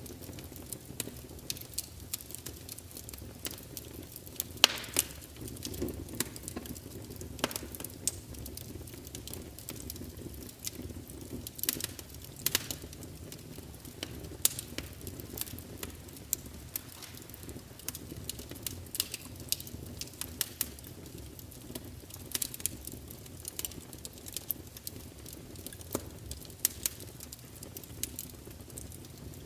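Wood fire burning with a low steady rumble and irregular sharp crackles and pops, a few louder snaps among them.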